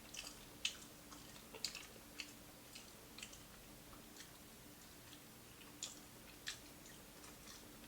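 Close-up, faint chewing of crispy fried food, with scattered small crunches and mouth clicks at irregular intervals.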